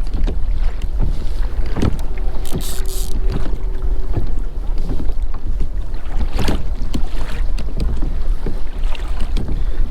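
Wind rumbling on an action camera's microphone on a kayak at sea, with water splashing around the hull and a few sharp knocks.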